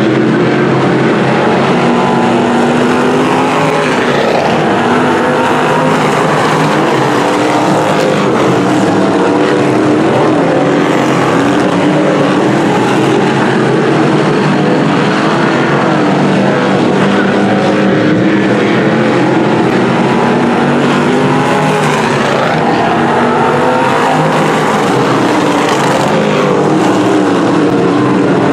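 A field of dirt-track Sportsman modifieds racing, their V8 engines revving up and down together as the cars go around the oval. Several engines are heard at once, rising and falling as the cars lift and accelerate.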